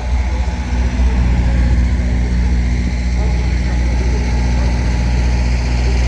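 An engine idling: a steady low hum that holds constant without revving.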